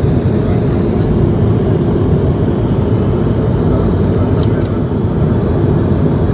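Steady low roar of airflow and the Pratt & Whitney PW1500G geared turbofan engines heard inside the Airbus A220-100's passenger cabin in flight. A brief faint click about four and a half seconds in.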